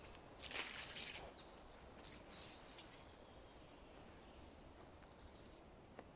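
Faint forest ambience with distant birds chirping, and a brief rustling noise about half a second in.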